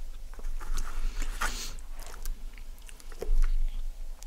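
Close-miked chewing of chicken poutine (fries, gravy and cheese curds), with wet mouth clicks and smacks and a longer slurping smack about a second and a half in.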